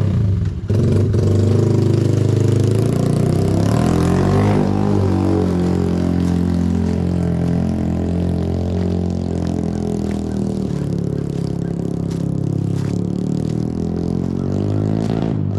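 Yamaha TT-R90's small four-stroke single-cylinder engine running, its pitch climbing about a second in and then rising and falling as the throttle is worked.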